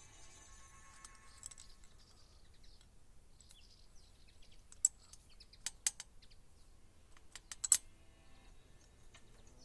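A few sharp clicks and taps of tools and metal parts being handled while an engine is assembled: single clicks about five and six seconds in, and a quick cluster near the end that is the loudest.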